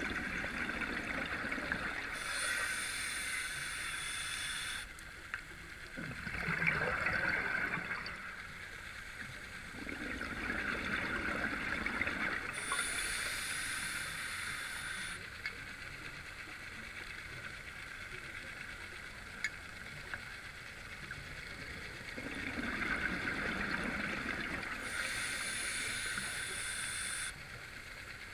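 Scuba diver breathing through a regulator underwater: slow breaths, each a hissing inhalation followed by a gush of bubbling exhaust, the loudest exhalation about seven seconds in.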